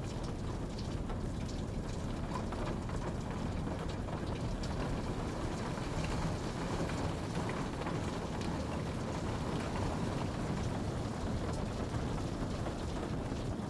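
Steady rain falling, a constant hiss with a deep low rumble and scattered drop ticks.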